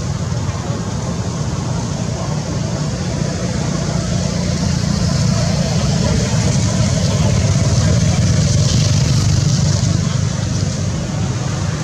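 Steady low rumble of a motor vehicle engine running close by.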